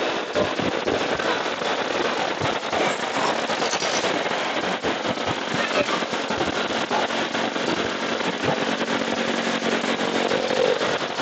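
Wind crackling on the microphone of a moving motorcycle, with road and engine noise underneath: a dense, steady, crackly rush full of small pops.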